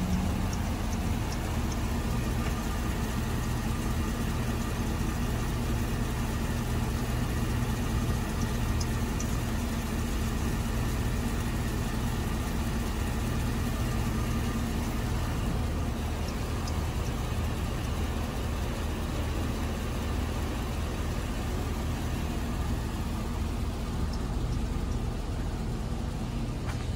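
Chevrolet Suburban's V8 engine idling steadily under the open hood.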